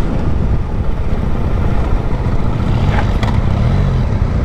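Motorcycle riding at road speed: engine running under a dense, steady wind rumble on the microphone, with two brief clicks about three seconds in.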